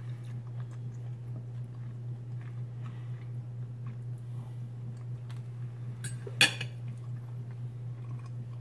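A person quietly chewing a mouthful of fried corn over a steady low hum, with faint small clicks and one sharp clink about six and a half seconds in.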